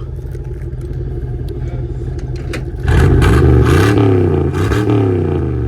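Plow truck engine running at a steady idle, then revved twice about three seconds in, rising and falling in pitch and getting louder, before it starts to fade near the end.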